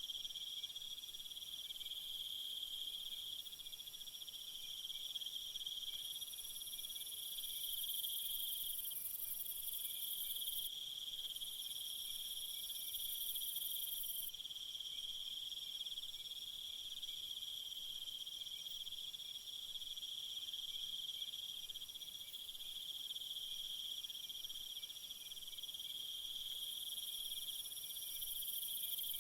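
A steady chorus of crickets and other insects trilling, with a higher, hissier insect buzz that starts and stops abruptly several times.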